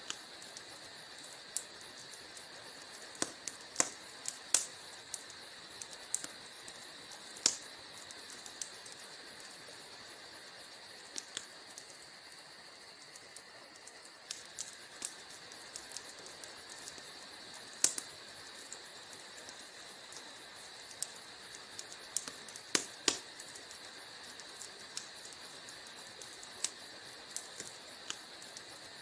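Wood fire burning in a fireplace, crackling: irregular sharp pops and snaps over a steady soft hiss, with a few louder pops scattered through.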